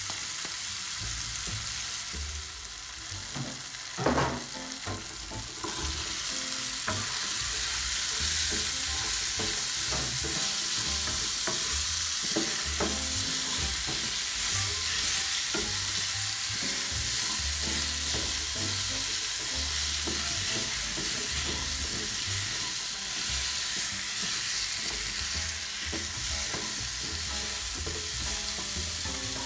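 Food frying in a non-stick pan, first tomatoes and then diced potatoes, sizzling steadily while a wooden spoon stirs and scrapes. There is a sharp knock about four seconds in, and the sizzle is louder from about six seconds on.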